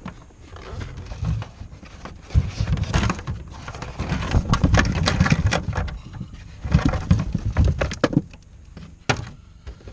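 Irregular knocks, clicks and rustling from car-audio wiring being handled and routed, with heavy low thumps that are busiest in the middle.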